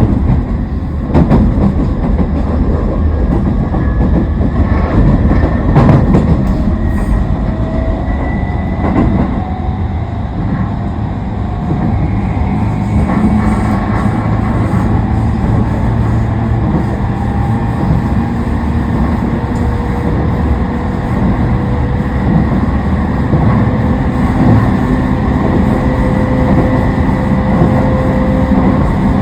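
Toei 10-300 series train's Mitsubishi IGBT-VVVF inverter and traction motors whining under a steady rumble of wheels on rail. Several tones rise slowly in pitch as the train gathers speed. A few sharp knocks come from the wheels over rail joints, most prominently about a second and about six seconds in.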